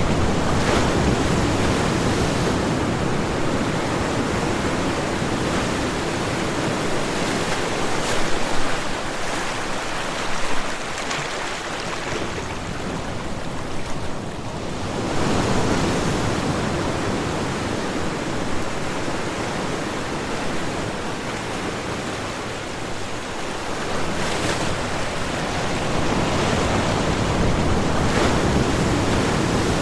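Ocean surf: waves washing ashore in a continuous rushing hiss that swells and eases over several seconds.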